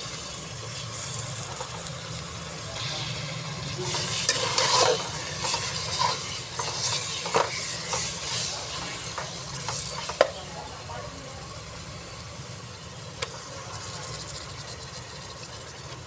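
Pork offal sizzling as it goes into a pan of bubbling sauce, with a spatula scraping and knocking against the pan as the pieces are stirred. The stirring clatter stops about ten seconds in with one sharp knock, and the sizzle carries on more quietly.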